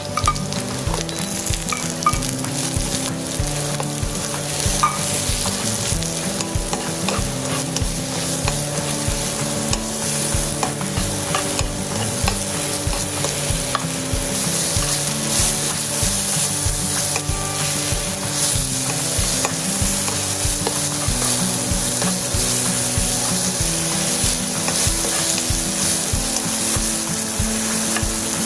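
Sliced shiitake mushrooms sizzling as they sauté in olive oil and butter in a nonstick frying pan, stirred and turned with a plastic spatula. The sizzle is steady, with small clicks from the spatula.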